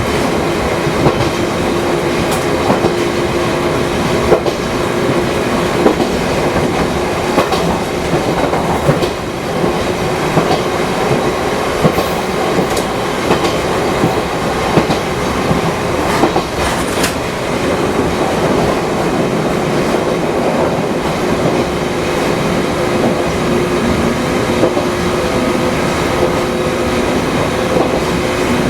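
Fukui Railway 200-series electric train running, heard from the cab: a steady running noise with a motor hum and scattered clicks of the wheels over rail joints.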